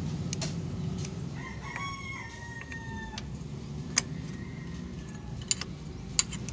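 A rooster crowing once, starting about a second and a half in and lasting under two seconds, over a steady low hum. A few sharp clicks follow later.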